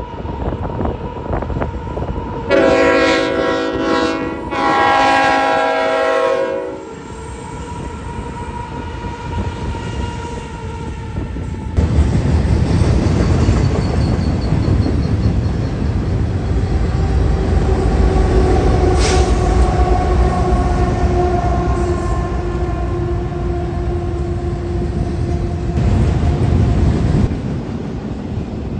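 Union Pacific ET44AH locomotive's five-chime K5HL air horn sounding two blasts of about two seconds each. About ten seconds later the intermodal train passes close by with a loud, steady rumble of wheels and cars, and faint steady whining tones over it.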